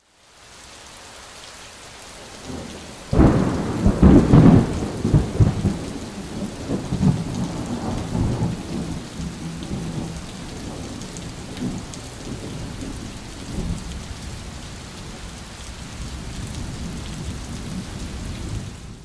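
Thunderstorm sound effect: steady rain hiss, then about three seconds in a loud crack of thunder that rolls on in a long rumble, slowly dying away, before it cuts off suddenly.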